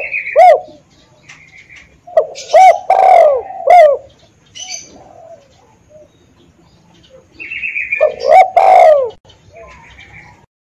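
Spotted dove (tekukur) cooing in three phrases of short, repeated low coos: one at the start, one about two seconds in, and one near the end. Fainter, higher chirps come between the phrases.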